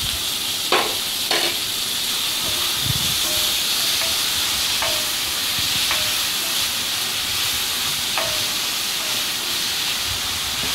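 Chopped tomatoes sizzling in hot oil in a kadai, the onions and green chillies frying with them as they are stirred with a spatula. The spatula knocks sharply against the pan about six times, each knock with a short ring.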